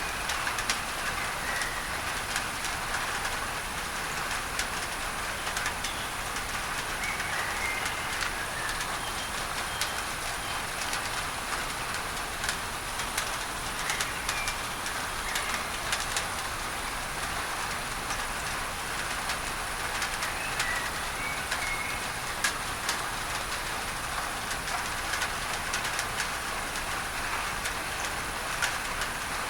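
Rain on a tin roof: a steady hiss dotted with sharp drop ticks, layered with a steady masking noise. Faint bird chirps come through a few times.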